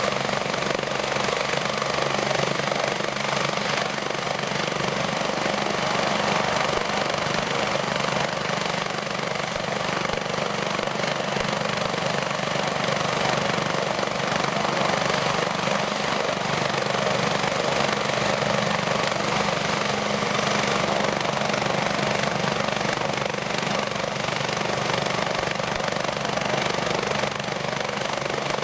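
BK117 twin-turbine helicopter running steadily, its turbine whine and rotor noise holding an even level.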